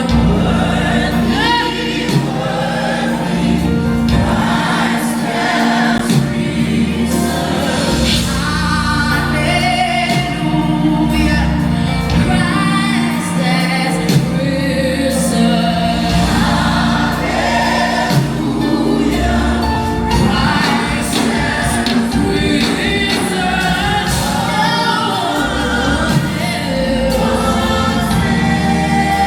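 Gospel choir singing with band accompaniment, over sustained low notes.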